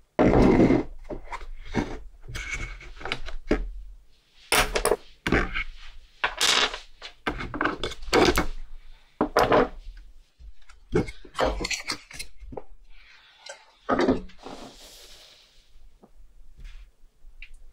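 Irregular knocks, clacks and clicks of small hard objects being handled and set down on a work surface, with a short scraping or brushing noise a little after halfway.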